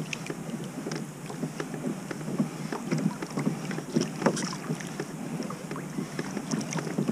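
Water lapping and splashing against a pedal kayak as it is worked along a crab trotline, with many small irregular splashes and knocks.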